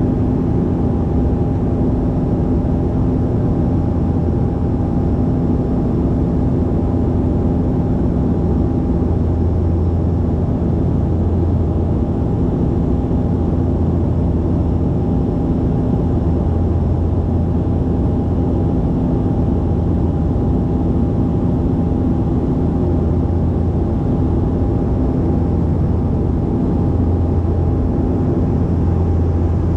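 A steady engine drone with several constant hum tones over a low rushing noise, holding the same level throughout.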